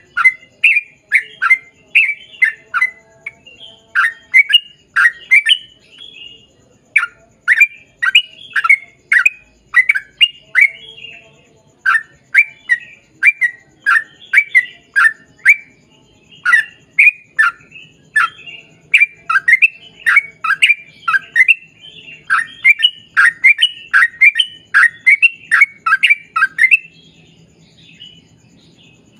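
Yellow-vented bulbul (trucukan) singing a long run of rapid, chattering phrases: quick falling notes several a second, strung together with hardly a break, until it stops near the end.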